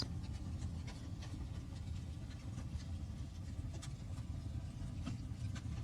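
Crackling fireplace ambience: a steady low rumble with faint, scattered crackles.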